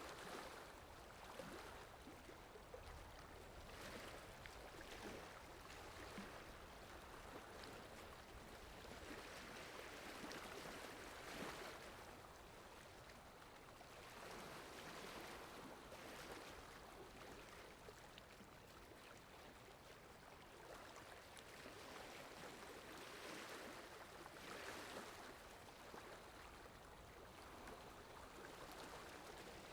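Faint water sound effect of softly flowing, lapping water, swelling and easing every few seconds.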